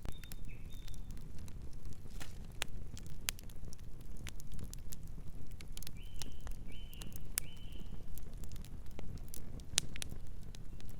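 Wood campfire crackling, with irregular sharp pops and snaps over a low steady rumble. A bird gives three short high chirps about six seconds in.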